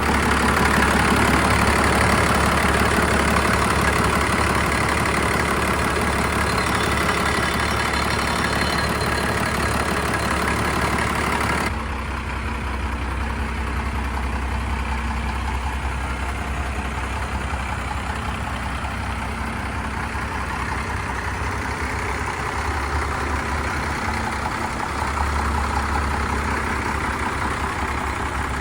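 First-generation Cummins 5.9-litre turbodiesel inline-six in a 1991 Dodge Power Ram W250, idling steadily with a deep low drone. About twelve seconds in, the sound abruptly turns duller, losing its high end.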